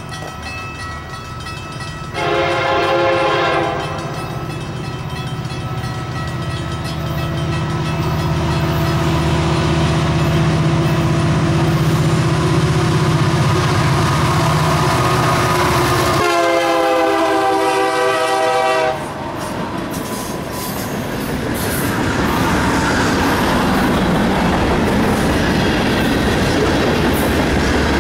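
Freight train's diesel locomotives approaching with their engines running, sounding the horn twice: a short blast about two seconds in and a longer one around sixteen seconds in. After the locomotives pass, the freight cars roll by with a steady clatter of wheels on rail.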